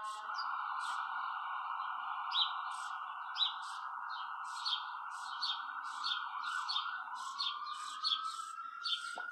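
A bird chirping over and over, short high chirps about every half second to second, over a steady droning tone that slowly rises and then falls in pitch near the end.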